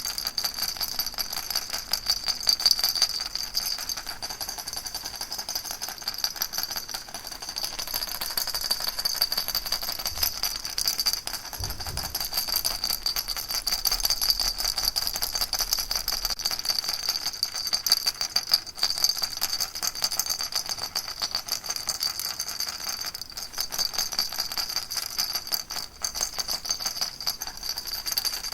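Baby rattle shaken without pause: a dense, even stream of small rattling clicks with a steady high ringing tone over it.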